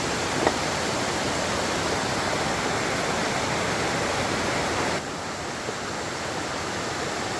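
Steady rush of flowing water, an even hiss that drops slightly and grows duller after about five seconds. A faint click about half a second in.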